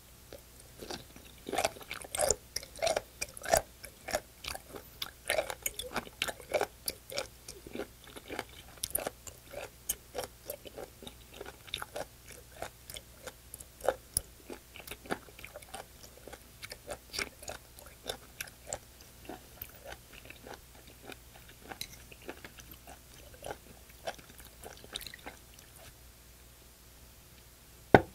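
Close-miked chewing of raw sea cucumber: a rapid run of crisp mouth clicks and crunches, busiest in the first several seconds and thinning out toward the end. Near the end comes a single sharp clink as the soju bottle meets the shot glass.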